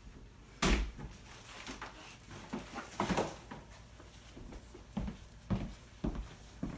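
Handling noises: a few separate knocks and rustles, the first the loudest, with the rest spread through the middle and the last few seconds.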